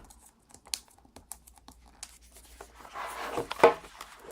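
A phone's retail box being opened and its packaging handled: scattered light clicks and taps, then rustling with a sharp click about three and a half seconds in.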